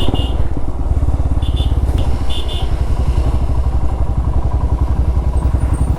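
Motorcycle engine running steadily while being ridden, a dense even pulsing rumble heard from the rider's own bike.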